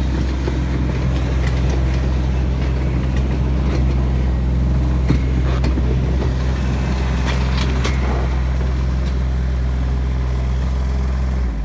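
Tractor engine running steadily, with a few short clicks and rattles over it.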